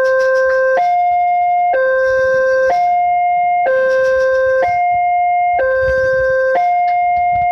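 Railway level-crossing warning alarm sounding its two-tone signal, a lower tone and a higher tone alternating about once a second, over and over: the crossing is closing for an approaching train.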